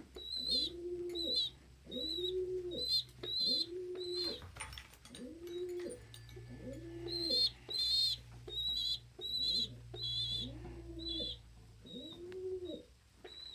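Pigeons cooing in a steady series, about one coo a second, with high, quick peeps from a squab scattered between the coos.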